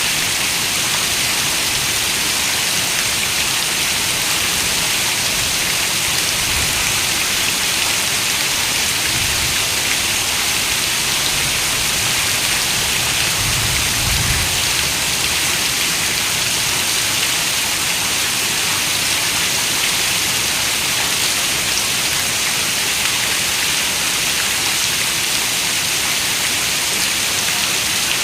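Steady rain falling, an even hiss of dense raindrops. A brief low rumble comes about halfway through.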